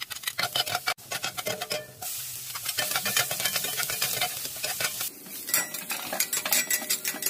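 Chopped garlic, onion and green chili frying in hot oil in a cast-iron skillet, with a spatula scraping and clacking against the pan as it stirs. The sound changes abruptly a few times.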